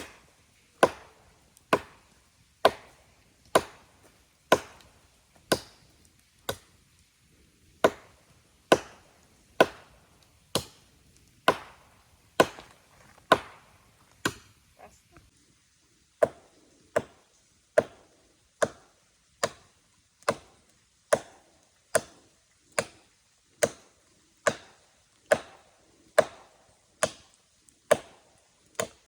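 Chopping: a long run of sharp, evenly paced strikes at about one a second, with short pauses around six seconds in and again around fifteen seconds in.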